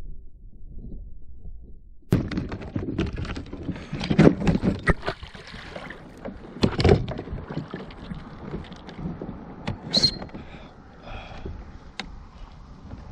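Knocks and thumps against a kayak hull, mixed with water splashing, while a muskie is fought and brought to the boat. The sound starts muffled, then about two seconds in it turns suddenly clear, with heavy clusters of knocks around four, seven and ten seconds in.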